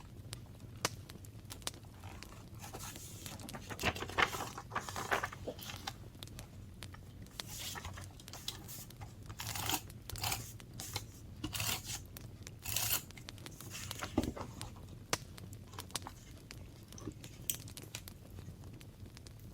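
Paper being torn and handled in short rustling bursts, with many small clicks and taps in between.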